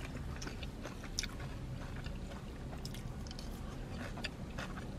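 A person chewing food close to the microphone, with scattered soft clicks and smacks over a low steady hum.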